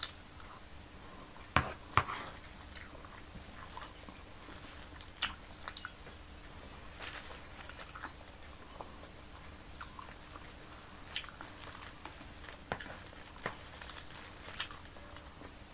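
Close-up eating sounds: chewing rice and canned fish with wet, crackly mouth noises. A metal spoon scrapes and clicks against the tray, with the sharpest clicks about 1.5, 2 and 5 seconds in.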